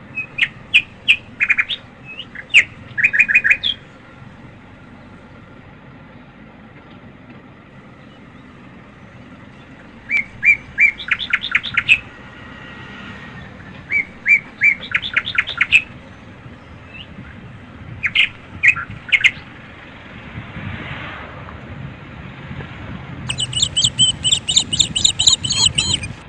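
A bird calling in short bursts of rapid high chirps, repeated every few seconds, over a low steady background rumble.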